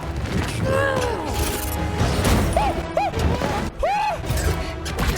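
Action-movie chase soundtrack: music under repeated crash and impact sound effects, with a few short rising-and-falling yelp-like tones in the middle.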